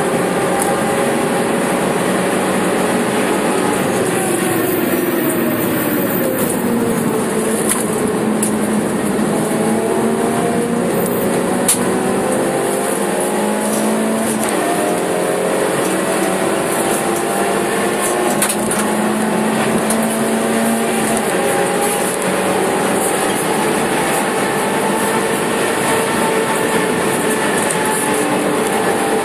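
Suzuki Swift Sport's four-cylinder engine at full track pace, heard from inside the stripped, roll-caged cabin. The revs drop a few seconds in, then climb again in several steps as it works up through the gears, over steady tyre and wind noise, with one sharp click near the middle.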